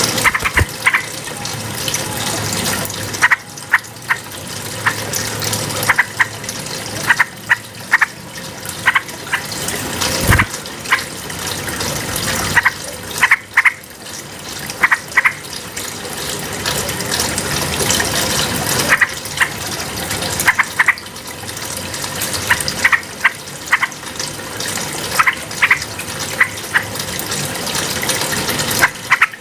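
Yellow-vented bulbul (trucukan) calling in short, bright notes, repeated in quick clusters, over a steady rushing noise like running water.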